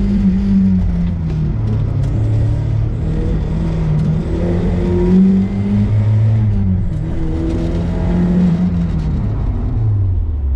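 Turbocharged Mazda MX-5's engine heard from inside the cabin, under hard acceleration: its pitch climbs, drops back at each gear change, and falls away near the end as the car comes off the throttle.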